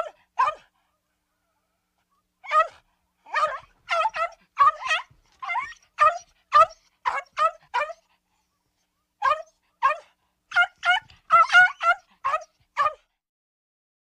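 Cartoon dog sound effect: a small dog yapping, about twenty short yips in irregular runs with silent gaps, stopping near the end.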